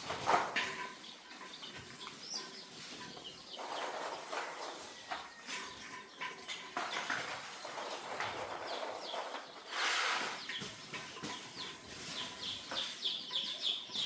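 Young chicks peeping in a brooder house, with scattered rustling and light knocks and a longer rustle about ten seconds in.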